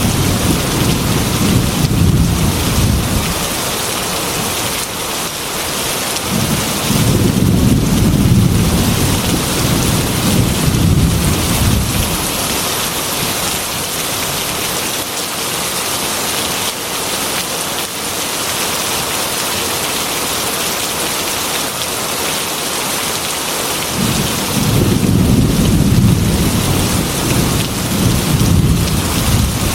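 Heavy rain falling steadily on a glass window, with low rolls of thunder three times: at the start, again from about six to twelve seconds in, and near the end.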